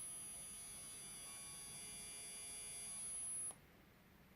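Faint steady electronic buzz with a thin high whine from a phone speaker playing a 16 Hz tone from a tone-generator app against a vibrating metal pump core. It cuts off suddenly about three and a half seconds in.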